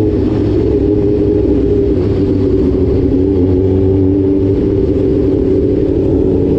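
Motorcycle engine running at steady cruising revs while riding, its pitch dipping a little midway and then rising again.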